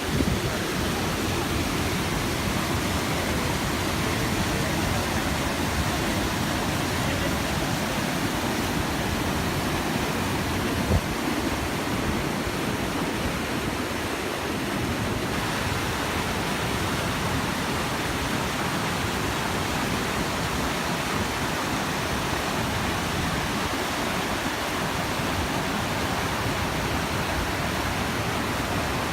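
Steady rush of flowing river water, an even hiss with no break, with a single brief knock about eleven seconds in.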